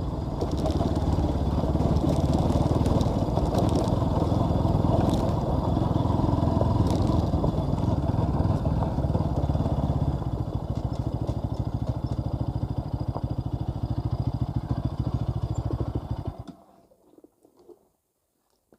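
Bajaj Pulsar NS200's single-cylinder engine running on the move, dropping to a quieter, steady running about ten seconds in, then stopping suddenly about sixteen seconds in.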